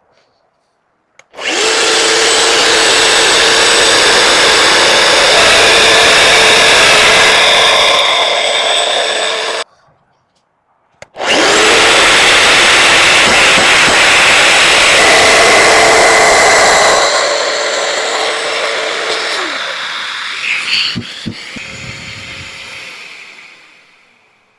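Domino joiner motor running at full speed while plunging mortises for size 8 x 50 mm dominoes, in two long runs. The first run stops abruptly; the second winds down gradually after switch-off, its pitch falling.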